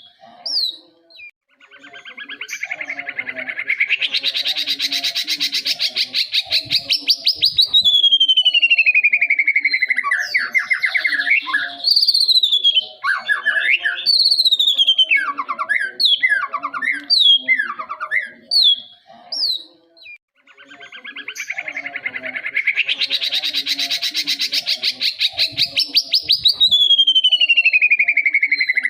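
Young white-rumped shama singing: a long, fast trill that swells and rises in pitch, then a clear whistle sliding down, followed by a run of varied whistled phrases. The same sequence starts again about twenty seconds in.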